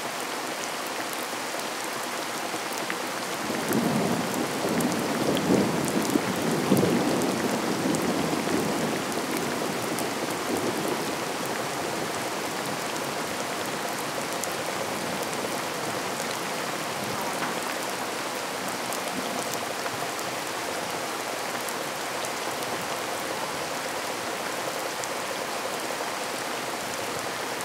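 Steady rain pattering down. About four seconds in, a long roll of thunder rumbles low for several seconds and then fades back under the rain.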